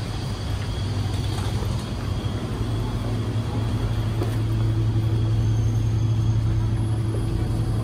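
Steady low hum of a crowded Singapore MRT train carriage, growing a little louder with a second steady tone joining about four and a half seconds in.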